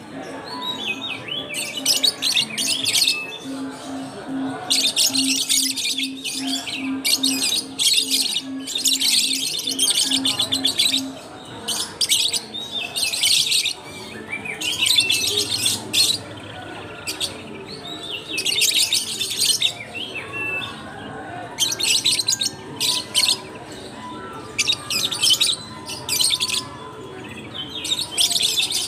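Caged lovebirds chirping and chattering in repeated high, shrill bursts, on and off throughout. A low pulsing tone beats about twice a second under them for roughly the first ten seconds.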